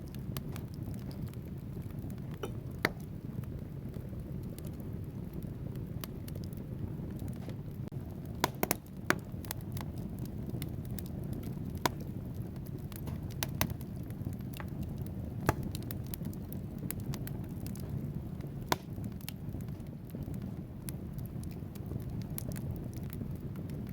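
Wood fire burning in a fireplace: a steady low rumble of flames with irregular sharp crackles and pops from the logs, a few louder snaps standing out.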